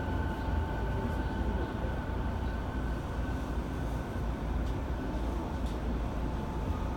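Interior running noise of an E217-series electric train car on the move: a steady low rumble of wheels on the rails, with a thin steady whine that fades away over the first few seconds.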